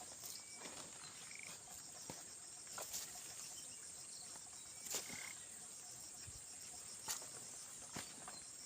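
Steady high-pitched chirring of crickets or other insects, with a few sharp knocks or scrapes about every two seconds.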